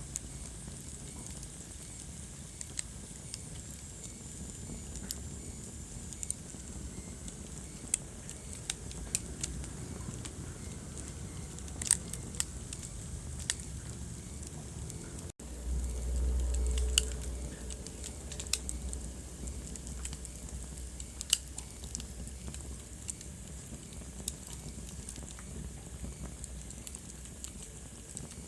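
Wood fire burning in a fireplace: a steady low rumble with irregular sharp crackles and pops. About halfway through, the sound drops out for an instant, and a louder low rumble follows for about two seconds.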